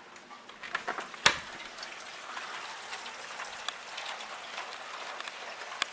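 Light rain on a water heater's vent pipe: a steady patter with sharp single drop strikes, the loudest about a second in and another near the end.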